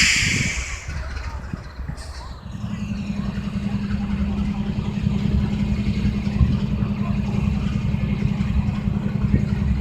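A short burst of hiss at the start, then from about two and a half seconds in a steady low engine drone.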